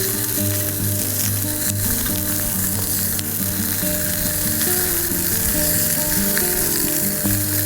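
Food frying in a pan, a steady sizzle, with background music of held notes changing pitch over it.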